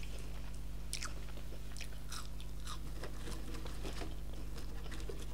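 Close-miked chewing and biting of French fries: scattered soft crunches and mouth clicks, over a steady low hum.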